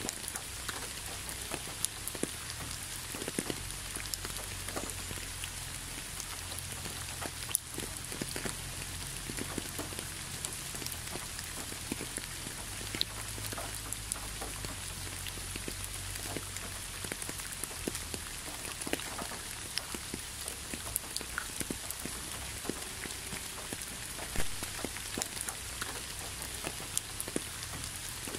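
Gentle rain falling on leaves and a road: a steady hiss with many separate drops ticking close by, and one louder drop near the end.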